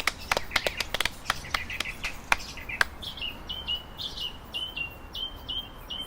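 Irregular sharp clicks for the first few seconds, then a songbird repeating a short, high, downward-sliding chirp about three times a second.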